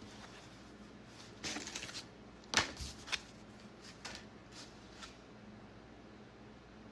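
Packaging rustling and crinkling in a few short bursts as an item is handled and unwrapped, the loudest about two and a half seconds in, then quiet.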